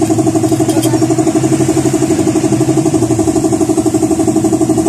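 A small engine idling steadily, pulsing evenly at about ten beats a second.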